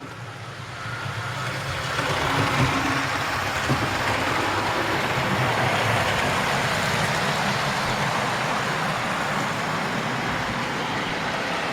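00 gauge model train running along the layout's track, a steady rumble of wheels and motor that builds over the first two seconds as it comes closer and then holds.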